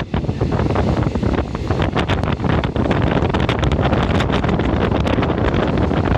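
Moving passenger train heard from inside: a steady low running rumble, with wind buffeting the microphone and, from about two seconds in, a dense clatter of rattles and clicks.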